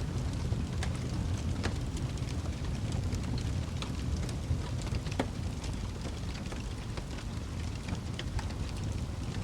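Wood fire burning in a fireplace: a steady low rumble of the flames with irregular sharp crackles and pops, one louder pop about five seconds in.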